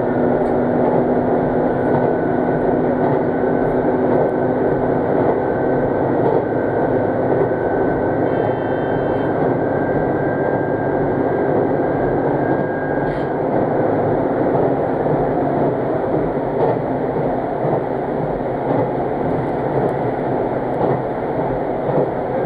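Diesel railcar running at speed, heard from inside the passenger cabin: a steady engine and rail rumble, with a faint whine that rises slightly in pitch and fades out about halfway through.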